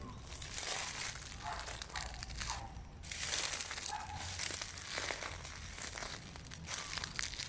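Footsteps crunching and rustling through dry fallen leaves, with a short lull about three seconds in.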